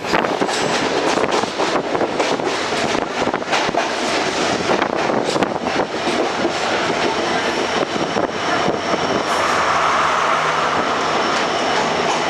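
Express train with ICF coaches running at speed, its wheels clicking over rail joints in quick, irregular succession over a dense rumble of running noise. About nine seconds in, the clicking thins out and it settles into a steadier rushing noise.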